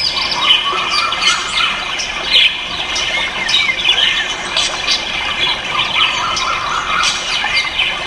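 A dense chorus of many caged ornamental birds calling at once: short, overlapping chirps and calls gliding up and down in pitch, with no single bird standing out.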